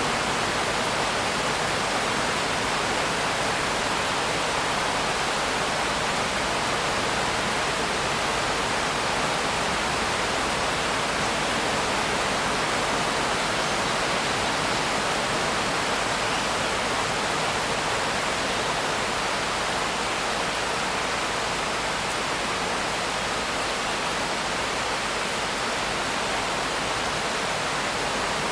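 Steady, unbroken rain, an even hiss with no single drops, thunder or changes standing out.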